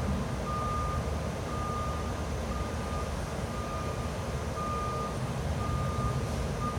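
A vehicle's reversing alarm beeping steadily, one beep about every second, over a constant low rumble.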